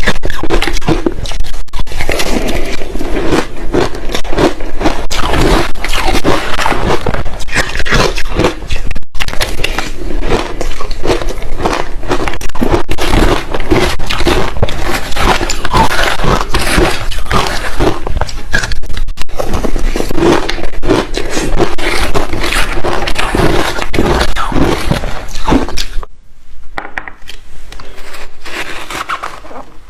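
Close-miked chewing of crushed ice mixed with passion fruit: a dense, continuous run of crunches. There is a brief break about nine seconds in, and the crunching turns quieter and sparser near the end.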